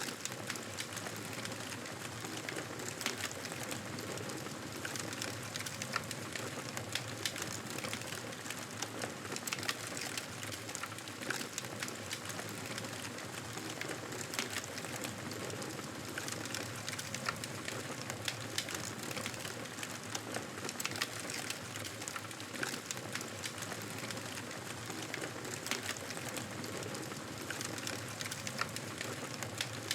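Wood fire crackling in a fireplace: a steady hiss with frequent, irregular sharp pops and crackles.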